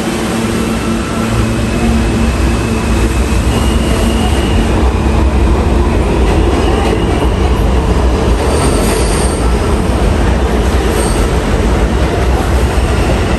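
New York City Subway train running through a station: a loud, steady rumble and rattle of wheels on rail, with brief faint high wheel squeals in the second half.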